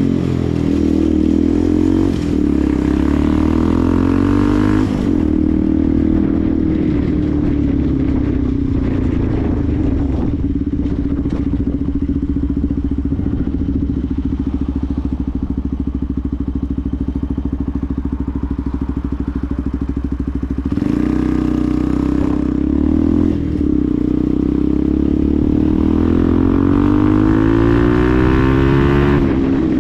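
Benelli TNT 125's single-cylinder engine riding along: it climbs in revs over the first few seconds, holds a steady speed for a long stretch, then picks up again about two-thirds through with a gear change and revs rise steadily until they drop off just before the end.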